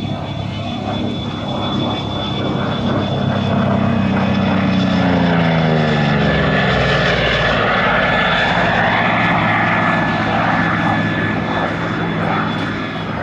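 Vought F4U Corsair flying past, its Pratt & Whitney R-2800 radial engine growing louder and dropping in pitch as it passes about five to seven seconds in.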